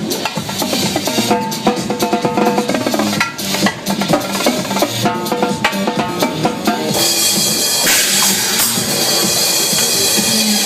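Drum kit played live over an electronic dance track: fast snare, bass drum and rimshot strokes. About seven seconds in, the high end turns to a steady bright wash.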